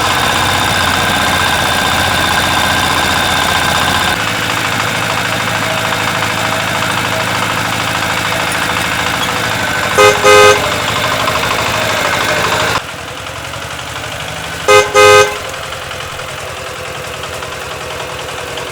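A vehicle engine running steadily, with two short double honks of a horn, about ten and fifteen seconds in, as the loudest sounds.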